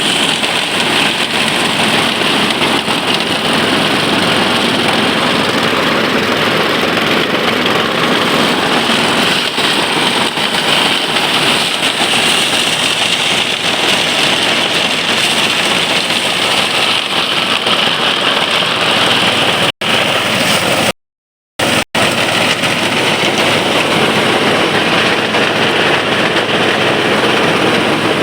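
Rice threshing machine running steadily with a loud, even mechanical noise. The sound cuts out abruptly twice, briefly, about three-quarters of the way through.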